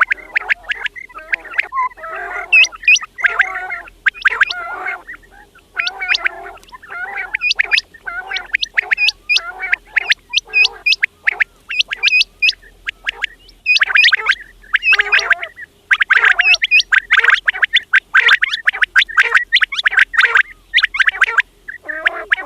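Quails calling: a dense, rapid run of short, sharp notes, several calls overlapping, with only brief pauses between bouts.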